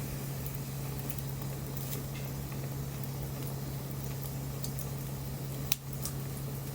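Wood bonfire crackling, with scattered small pops and one sharper pop about two-thirds of the way in, over a steady low hum.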